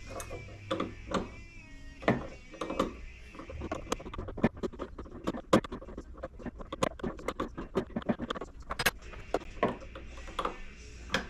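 A hand tool working the two 10 mm nuts on an RC boat's drive-shaft coupler: many short metal clicks and taps, coming quick and irregular through the middle, as the nuts are loosened to free the flex shaft.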